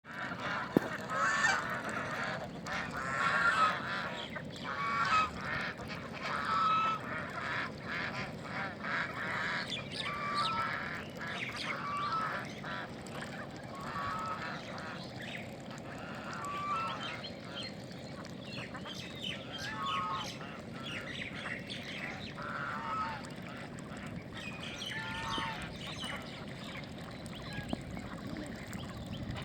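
A flock of birds calling over and over in short, honking calls, loudest and most crowded in the first few seconds, then thinning out.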